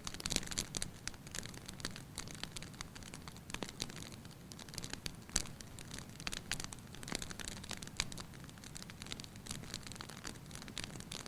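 Wood fire crackling in a fireplace: irregular sharp pops and snaps over a soft steady hiss and low rumble.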